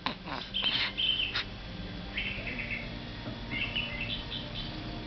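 Small birds chirping in several short runs of quick, high notes.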